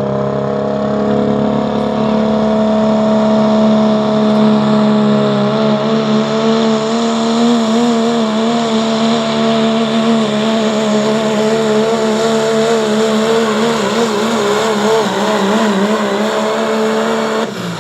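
Limited pro diesel pickup truck pulling the sled at full throttle. The engine holds a high, steady pitch that wavers unsteadily through the second half of the run, then lets off suddenly near the end.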